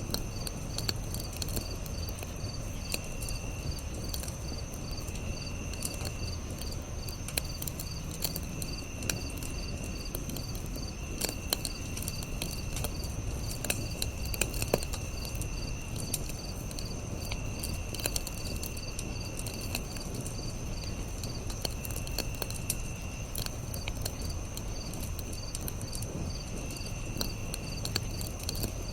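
Campfire crackling with scattered sharp pops and a low steady rush, over a chorus of insects: a continuous high trill and a lower chirping call that repeats about every two seconds.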